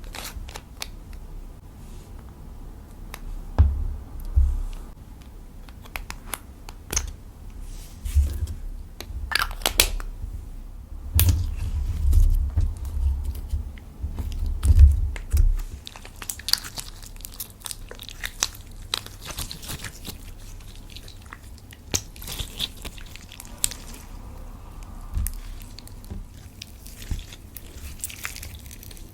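Clear slime being kneaded and squished by hand, with lipstick worked into it: irregular sticky clicks and pops, and dull low thumps from hands pressing it, heaviest about halfway through.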